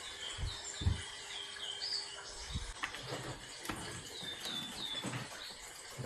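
Small birds chirping: a quick series of short, high, curved notes in loose runs. A few dull low thumps and a click come from movement close by.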